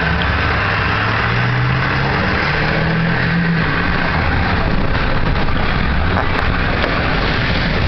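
Ford 7.3 Powerstroke V8 turbo diesel in a 2000 F350 pulling while driving, its note rising over the first few seconds, under a steady loud rush of road and wind noise.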